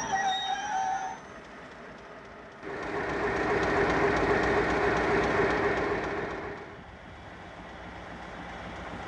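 Class 56 diesel-hauled freight train: wheels squealing on the rails for about the first second, then quieter. A little over a quarter of the way in a steady rumble of train noise starts suddenly and drops away about three-quarters of the way through.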